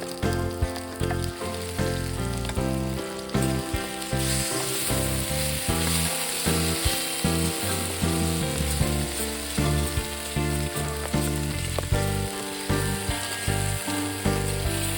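Food sizzling as it fries in a paella pan, the sizzle growing louder about four seconds in, with background music throughout.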